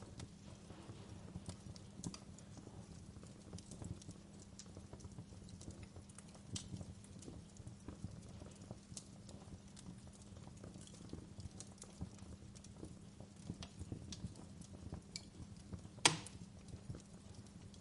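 Wood fire crackling in a fireplace: irregular small pops and snaps over a low steady hum, with one sharp, loud pop near the end.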